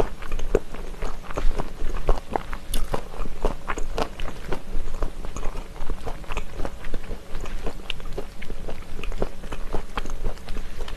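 A person chewing spicy stir-fried chicken feet with the mouth closed, a steady run of irregular crunches from the crunchy pieces.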